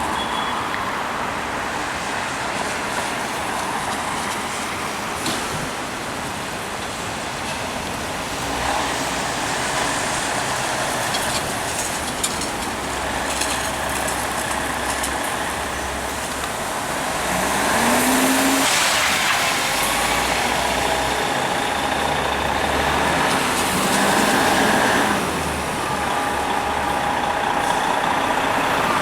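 City street traffic with heavy vehicles passing, including an air-brake hiss. It grows louder about two-thirds of the way through.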